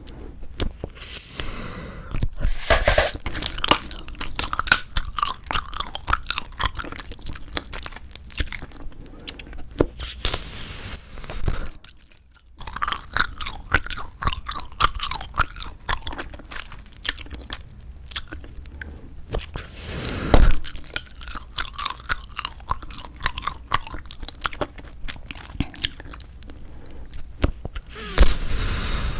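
Close-miked, wet chewing of squeezable tube bubblegum: rapid sticky smacks and clicks. There is a brief pause near the middle and one louder sharp snap about two-thirds of the way through.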